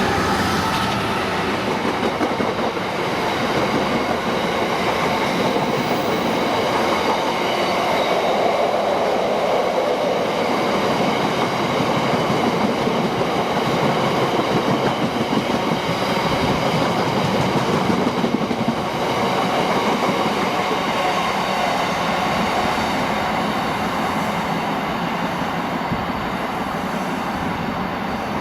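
A train running past on the line, a loud steady rumble with high whining tones over it, lasting the whole time.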